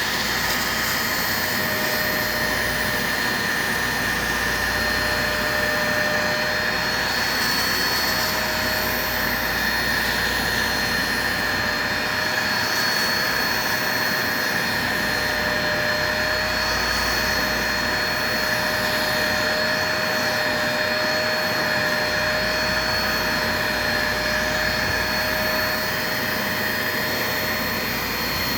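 Hoover Spotless portable carpet spot cleaner running steadily, its suction motor giving a constant whine over a steady rush of air, while it sucks water from carpet.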